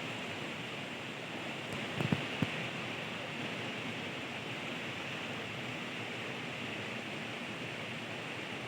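River water rushing, a steady, even hiss, with a few light knocks about two seconds in.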